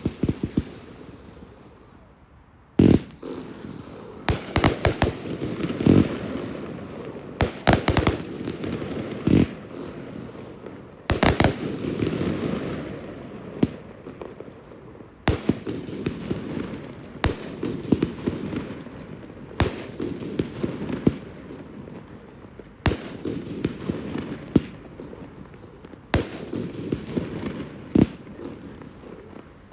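Fireworks display: a rapid run of pops dies away at the start, then after a short lull sharp shell bursts go off at irregular intervals of one to three seconds, with smaller pops and crackling between them.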